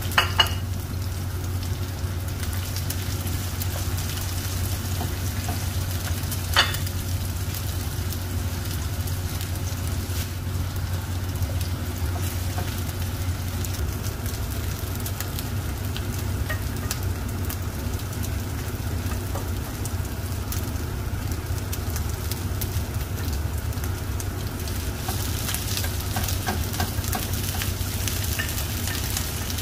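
Red onion and ginger sizzling steadily in oil in a nonstick skillet, over a low steady hum. There are sharp knocks right at the start and again about six and a half seconds in. Near the end the sizzle grows brighter as sliced bell peppers go into the pan.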